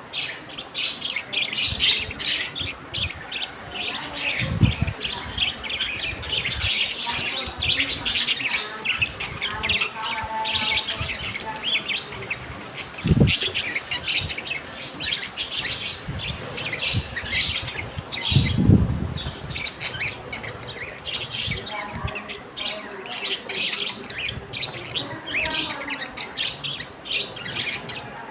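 A group of lovebirds and budgies chirping continuously with quick, overlapping high chirps. A few short dull thumps stand out, about 4 s, 13 s and 18 s in.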